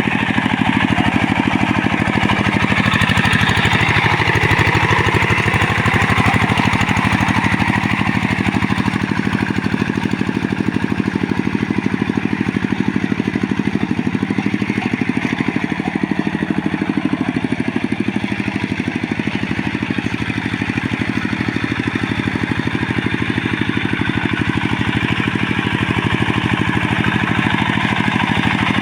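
Two-wheel hand tractor engine running steadily with a fast, even firing beat. Its pitch dips briefly about four seconds in, then recovers.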